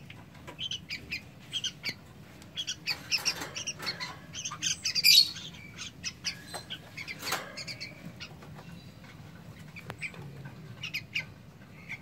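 Young caged trocok birds giving many short, high chirps and squawks, loudest about five seconds in, with a brief flutter of wings as a hand reaches into the cage.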